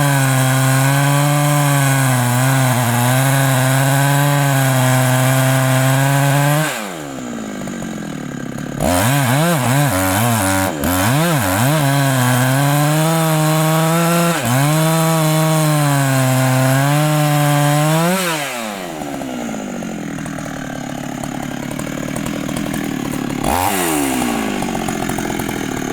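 Large two-stroke Husqvarna chainsaw cutting into the thick trunk of a rain tree at full throttle. It drops to idle about seven seconds in, is revved back up with a few blips and cuts again, then falls back to idle near the end with one brief rev.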